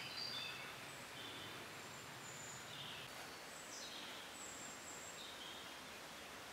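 Faint outdoor background hiss with scattered short, high bird chirps and whistles.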